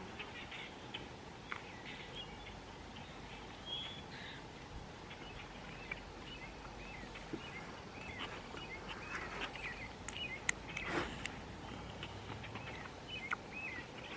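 Small birds chirping, many short calls repeating throughout, over a low rumble of wind, with a few sharp clicks from about nine to eleven seconds in.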